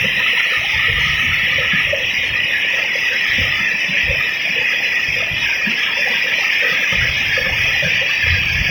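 Waterfall rushing: a steady, loud hiss of falling water, with irregular low rumbles underneath.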